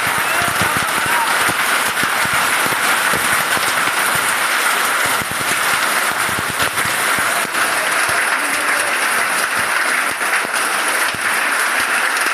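Hail pelting down in a dense, steady clatter of countless small impacts.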